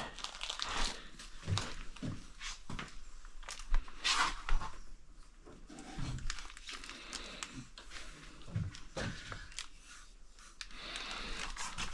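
Scattered rustling, small clicks and knocks of hands fitting a kayak carry handle into place.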